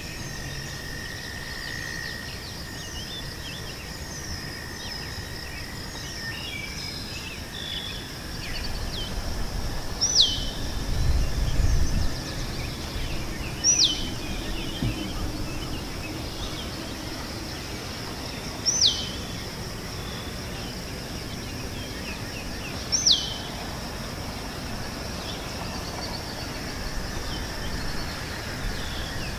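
Meadow ambience: a steady high insect hum under scattered small bird chirps. One bird repeats a loud, short falling whistle about four times, four to five seconds apart. A low rumble comes briefly about ten seconds in.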